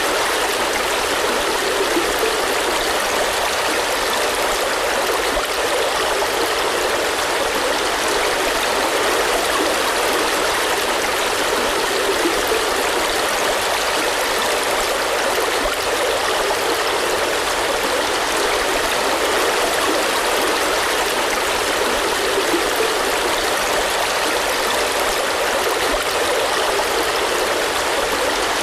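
Steady heavy rain: an even, unbroken hiss of falling water at a constant level.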